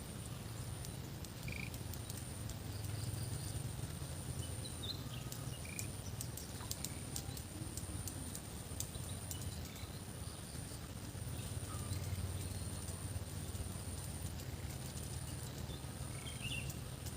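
Rural outdoor ambience: a steady high-pitched insect trill with short breaks, a few scattered short bird chirps, and a low steady rumble underneath.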